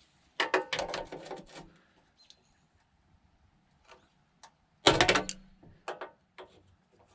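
Metal clicking and scraping of a screwdriver being worked on a stuck screw in sheet metal, in two short bursts of rapid clicks: one near the start and one about five seconds in, with a few single clicks between.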